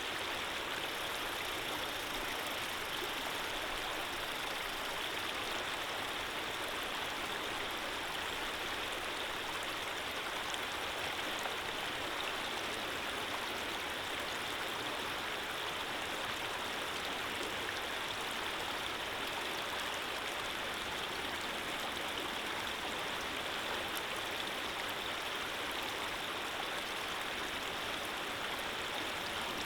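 Running water flowing steadily, a continuous even rush with no breaks.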